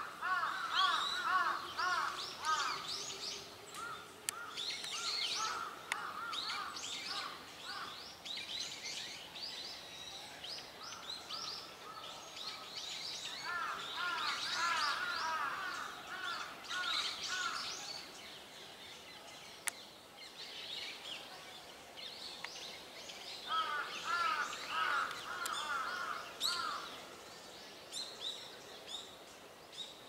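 Wild birds calling in the trees: several runs of quick, repeated arched call notes a few seconds long, recurring every several seconds, over steady higher-pitched chirping.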